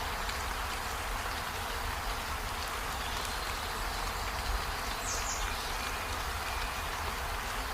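Steady rainfall, an even hiss with no let-up, with a short high chirp about five seconds in.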